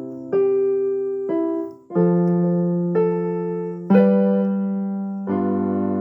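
Electric piano or keyboard music: slow sustained chords, a new one struck about once a second and left to fade.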